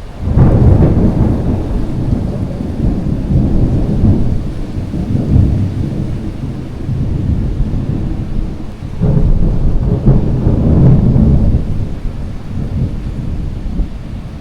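Thunder: a sudden loud crack that rolls on as a deep rumble, with a second strong peal of rolling thunder about nine seconds in.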